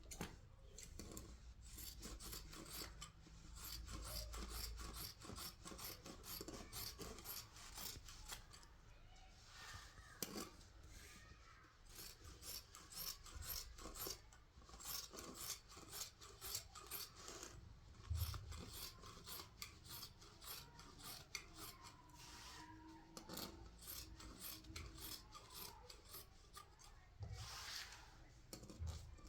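Faint rasping, scraping strokes repeated in quick succession, with a few soft knocks in between.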